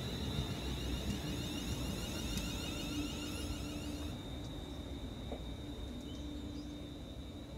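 A train rumbling through the station with a steady high whine, slowly fading as it moves away.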